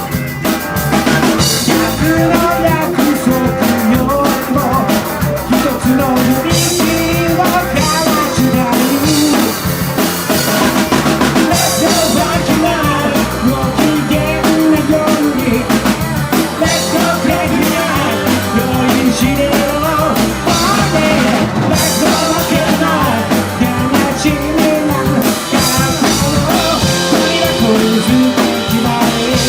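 Live rock and roll band playing, drum kit driving a steady beat under the other instruments.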